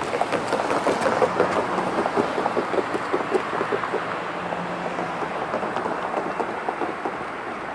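Freight train cars rolling past: a steady rumble with a dense run of wheel clicks, loudest in the first few seconds and easing a little toward the end.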